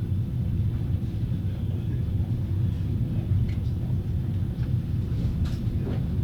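Passenger compartment car rolling at low speed, a steady low rumble heard inside the closed compartment, with occasional faint creaks and knocks from the carriage.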